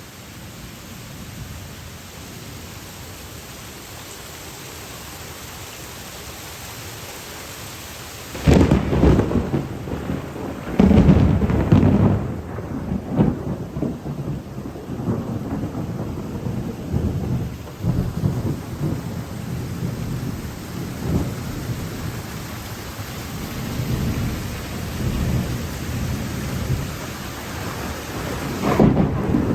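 Tropical thunderstorm: a steady hiss of rain, then, a little under a third of the way in, a sudden loud thunderclap that breaks into long rolling rumbles of thunder, swelling again near the end.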